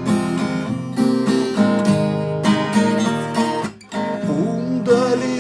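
Acoustic guitar strummed in a steady rhythm, breaking off for a moment about three and a half seconds in before the strumming resumes.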